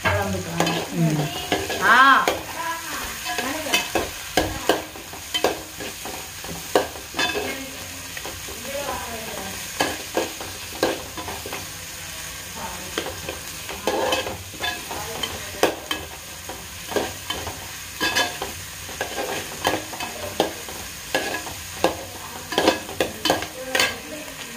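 Chopped onions, tomato and green mango frying in oil in a metal pot with a steady sizzle, while a slotted metal spatula stirs them, scraping and clinking against the pot many times.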